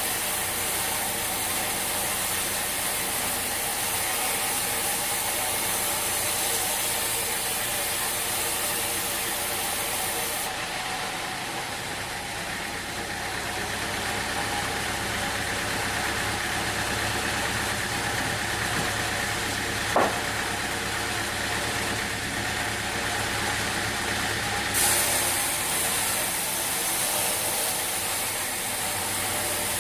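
Sawmill machinery running steadily, an engine-driven hum with many steady tones under a constant hiss. The high hiss drops away for a stretch in the middle, and a single sharp click sounds about two-thirds of the way through.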